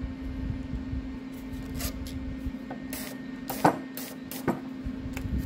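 MIG welder wire-feed motor running with a steady hum while the gun's trigger is held, with a few sharp metal clicks and taps from handling the gun. The wire is not advancing because the spool has run out.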